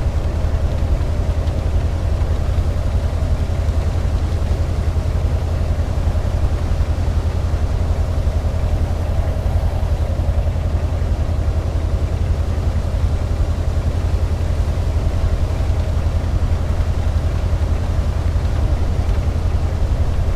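Tornado wind roaring: a loud, steady low rumble that does not let up.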